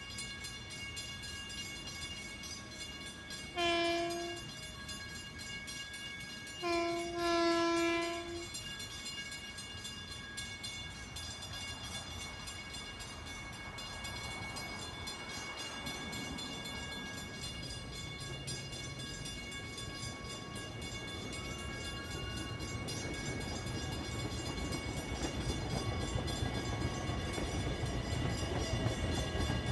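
Long Island Rail Road electric train approaching: a distant horn gives a short blast about four seconds in and a longer one about seven seconds in, then the train's rumble grows steadily louder as it nears.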